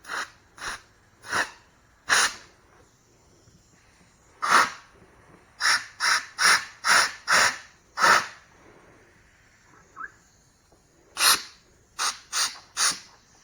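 Compressed air from an air-hose blowgun fired in short blasts, about fifteen sharp hissing puffs in irregular groups, blowing out the jets and passages of a clogged small-engine carburetor during cleaning.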